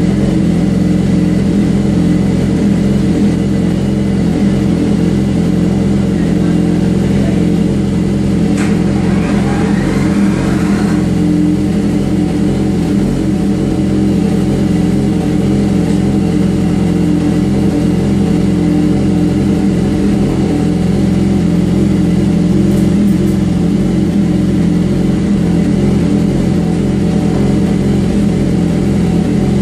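BMW S1000RR's inline-four engine running at a steady, unchanging speed through an aftermarket Mussan exhaust, without revving. There is a brief sharp click about nine seconds in.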